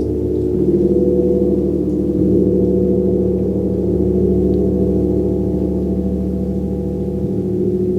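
Gong played continuously: a sustained, dense wash of low overtones with a steady pulsing shimmer, and no single sharp strike standing out.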